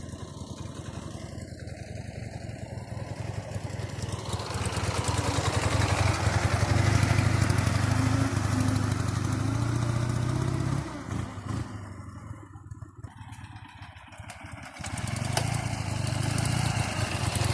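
Ural motorcycle's flat-twin engine running, growing steadily louder over several seconds, easing off about two-thirds of the way through, then picking up again near the end.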